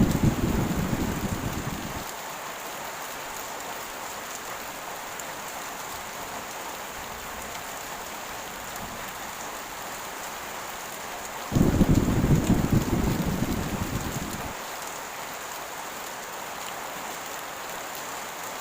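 Heavy rain falling in a steady hiss, with thunder: one rumble dying away over the first two seconds, and another that breaks in suddenly a little past the middle and rolls off over about three seconds.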